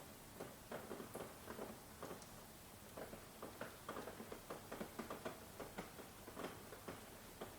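Rain falling, heard as irregular drops pattering and tapping several times a second over a faint steady hiss.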